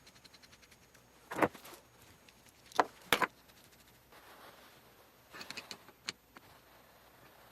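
Several sharp knocks and clanks from metal parts being handled during hydraulic cylinder reassembly, two of them close together about three seconds in. A quick run of faint ticks comes at the start.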